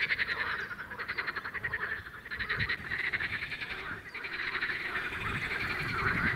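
Chorus of male common water frogs and pool frogs croaking together, a dense fast rattling from many overlapping callers, dipping briefly about two and four seconds in. These are the males' spring mating calls, made louder by their inflated vocal sacs.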